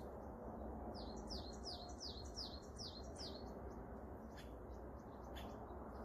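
A small bird calling: a quick series of about seven falling whistled notes, roughly three a second, followed by a few short, sharp high notes.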